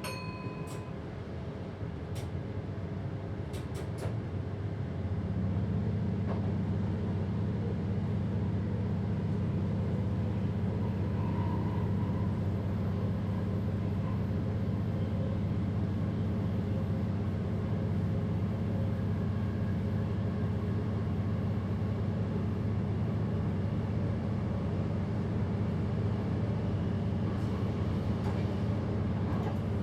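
Passenger train heard from the driver's cab: a short beep at the start and a few clicks, then from about five seconds in a steady low hum of the train running.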